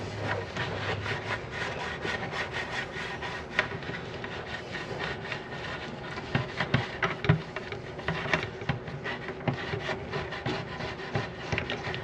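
Plastic coupling nut being unscrewed by hand from a toilet fill valve's threaded shank: a steady run of scraping and small clicks as the threads turn.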